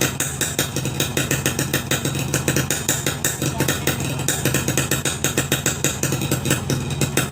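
Motorcycle engine idling through an open 'boban' racing exhaust, a steady low hum with rapid, even popping pulses from the pipe.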